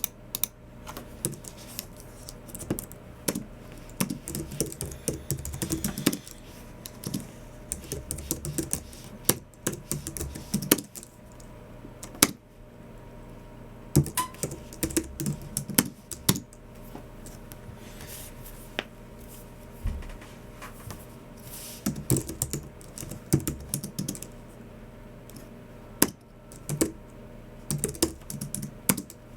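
Typing on a Logicool MX Keys Mini low-profile scissor-switch keyboard: quick runs of keystrokes broken by short pauses.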